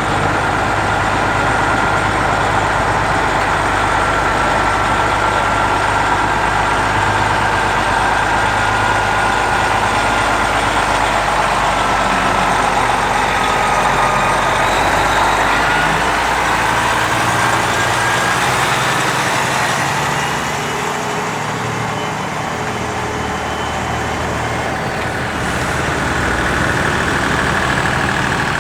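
Diesel engine of a Kenworth cabover truck running with a steady low rumble; the low engine note drops away about two-thirds of the way through.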